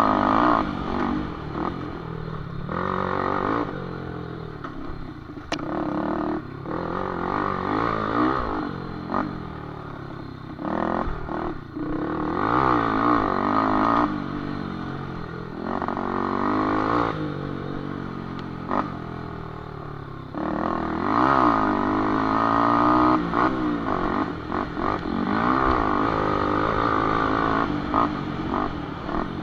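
Small underbone motorcycles ridden off-road, their engines revving up and falling back again and again as throttle opens and shuts, with scattered knocks and rattles.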